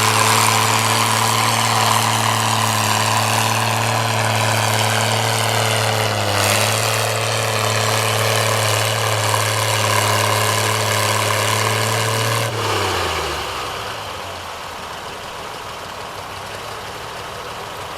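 Oliver 88 tractor's six-cylinder engine running hard at a steady high speed while pulling the sled, with a brief dip about six seconds in. About two-thirds of the way through it is throttled back, the pitch falling and the sound dying away as the pull ends.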